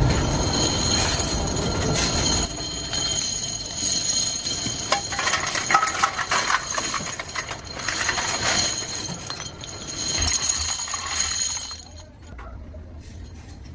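Brake-shoe factory machinery running with a steady high whine, with metal parts clinking and clattering. The noise drops away sharply about twelve seconds in.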